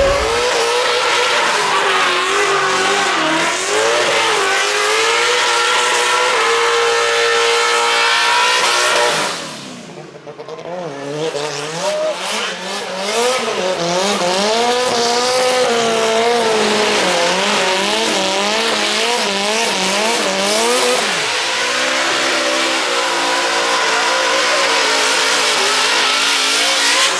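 Drift car's engine revving up and down over and over as the throttle is worked, over the hiss and squeal of spinning tyres. The sound drops away briefly about a third of the way through, then comes back as loud as before.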